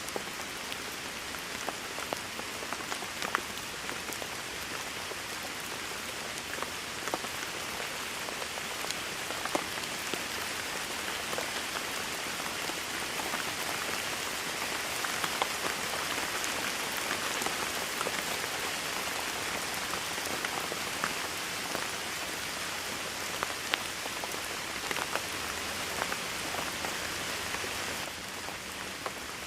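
Steady heavy rain: a dense, even hiss with scattered sharper ticks of single drops hitting.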